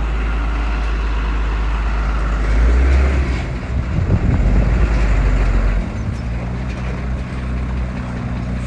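Heavy diesel engine of earth-moving machinery running under varying load. Its low rumble swells about two and a half seconds in, stays heavier until about six seconds, then eases off.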